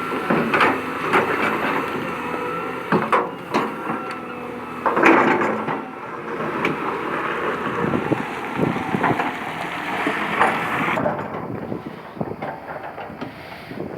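Heavy earthmoving machine working rock and soil: a diesel engine runs steadily under repeated knocks, clatter and scraping of stones and earth.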